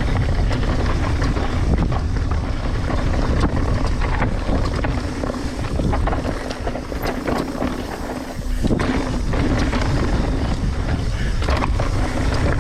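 Strong wind buffeting the action camera's microphone during a mountain bike ride, a steady rumble with scattered short knocks and rattles from the bike on the trail.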